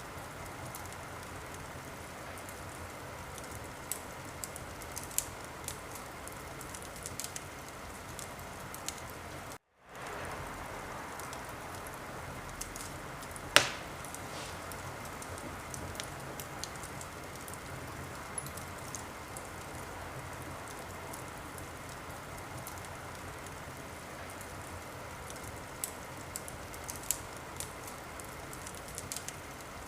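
Wood fire crackling steadily, with scattered sharp pops and one loud pop a little under halfway through. The sound cuts out for a moment about ten seconds in and fades back.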